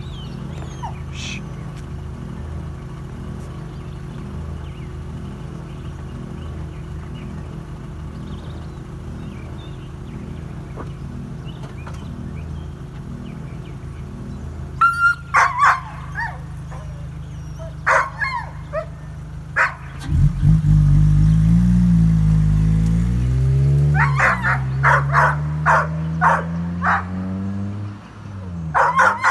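Toyota Celica engine idling steadily, then revving hard about twenty seconds in as the car pulls away, its pitch climbing, dipping once and climbing again. A dog barks in short runs about fifteen seconds in and again over the car's departure.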